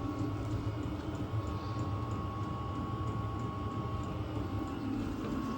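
Steady low background hum with a faint thin high tone, typical of a workshop's room tone; no distinct events.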